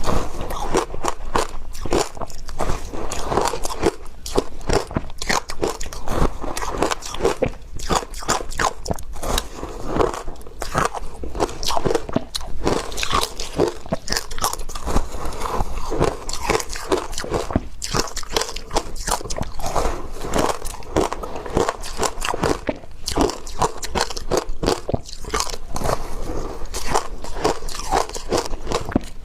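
Close-miked biting and chewing of soft, powdery ice, a dense run of crisp crunches and crackles with no pauses.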